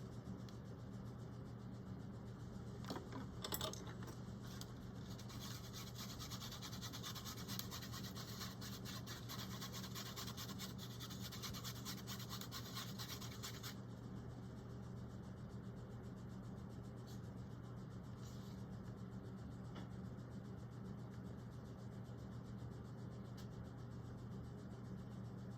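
Faint rubbing and scratching of paint being mixed to the right consistency on a palette, with a few light clicks; the scratching stops about halfway. A steady low hum runs beneath.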